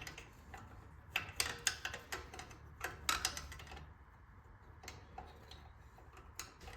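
Irregular light metallic clicks and taps from a wrench and small engine parts being handled during a small-engine teardown, busiest in the first half.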